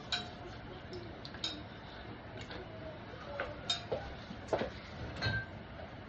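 Light clicks and clinks of kitchen things being handled, about half a dozen scattered over several seconds, each short with a brief ring.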